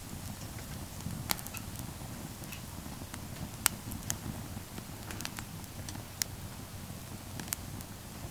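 Wood campfire burning with a low rumble of flames and irregular sharp crackles and pops, a few louder snaps among them.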